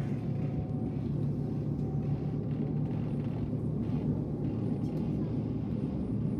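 Steady low rumble of a passenger train running, heard from inside the carriage, with a faint steady whine above it.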